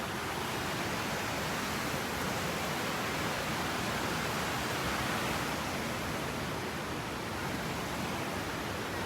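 Steady rushing noise of a fast-flowing river.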